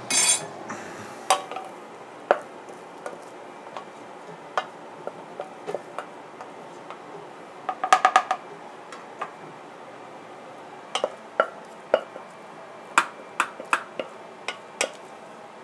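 A utensil scooping and scraping rice out of a pot and onto plates: scattered clicks and knocks of the utensil on cookware and dishes, with a quick run of four ringing taps about eight seconds in.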